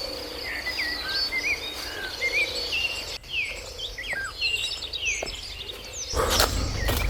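Several wild birds singing in woodland, a busy mix of short chirps and quick rising and falling whistled notes. About six seconds in, a low rushing noise comes up under them.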